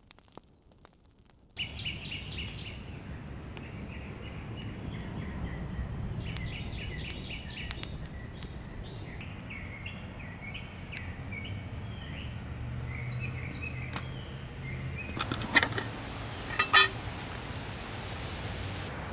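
A songbird singing short, quickly repeated falling trills and chirps over a low, steady background rumble. Near the end, a few sharp clicks and rustling from a metal camp pot and cloth being handled.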